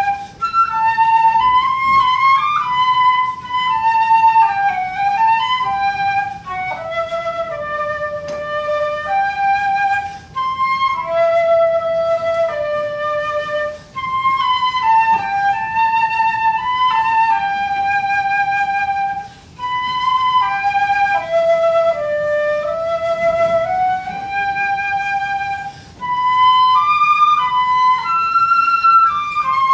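Solo flute playing a slow, mostly stepwise melody of held notes in phrases, with short breaths between them.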